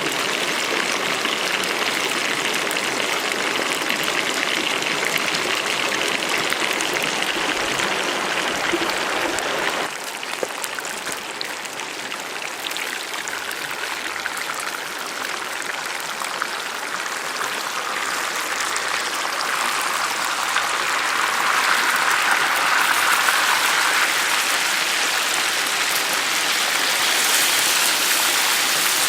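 Hot oil sizzling and crackling as a whole chicken deep-fries in a pan over a wood fire. The hiss drops and changes tone suddenly about a third of the way in, then builds again.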